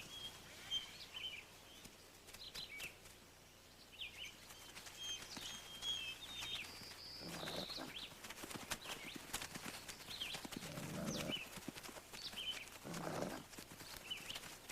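Wolf pups whining and squeaking in many short, high calls while begging from the adults for regurgitated food, with three louder, lower calls about seven and a half, eleven and thirteen seconds in.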